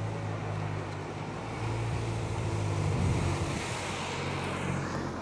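Peugeot 308 R Hybrid's 270 hp turbocharged engine running at low revs as the car rolls slowly across the paddock, a steady low drone under wind noise on the microphone that swells about three to four seconds in.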